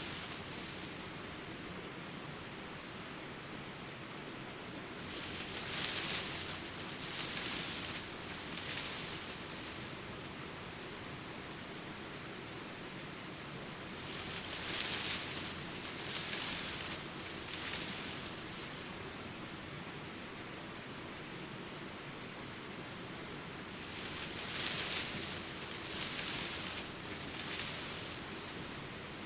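Steady high-pitched chorus of crickets or similar insects. Three times, a few seconds of rushing noise swells up and fades, like leaves stirring in a breeze or water washing.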